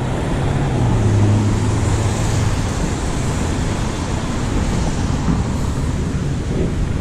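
Steady vehicle and traffic noise with a low engine hum, strongest in the first couple of seconds.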